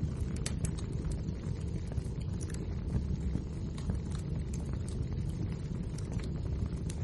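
Wood fire burning in a fireplace: a steady low rumble with many scattered, irregular crackles and pops.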